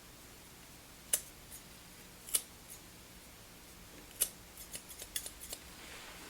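Freshly sharpened curved grooming shears snipping through hair in test cuts: three crisp snips about a second apart, then a quicker run of lighter snips near the end.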